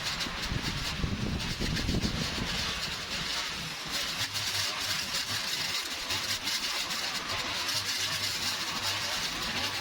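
Steady machine noise: a loud, even hiss, with a low engine hum joining about four seconds in.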